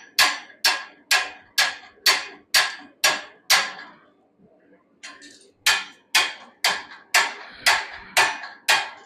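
Hammer blows, about two a second, each with a short metallic ring, driving a hot wrought-iron pommel down onto a sword's tang in a hot fit. The blows stop for about a second and a half midway, then start again at the same pace.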